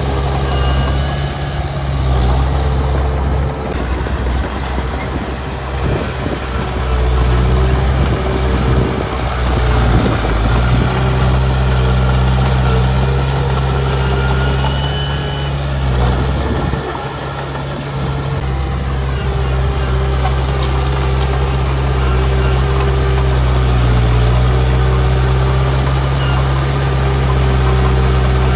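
Heavy diesel earthmoving machinery running steadily with a deep engine drone. The engine sound dips briefly about ten seconds in and again around sixteen to eighteen seconds in.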